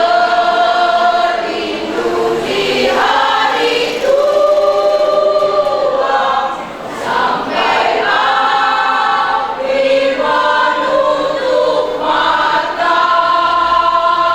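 Choir singing in several voices, long held notes in phrases that change every two to three seconds.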